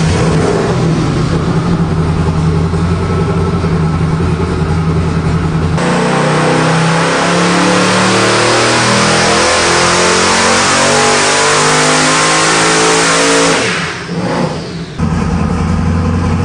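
Boosted Nelson Racing Engines LSX small-block V8 idling, then about six seconds in going to full throttle on a dyno pull, its pitch climbing steadily for about eight seconds. The throttle is then chopped and the engine drops back to idle.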